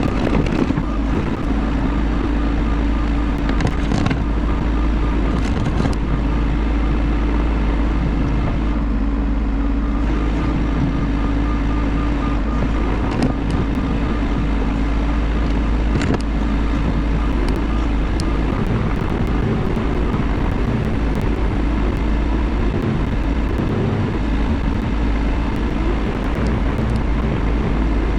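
Bobcat E50 compact excavator's diesel engine running steadily while working, with a few sharp knocks.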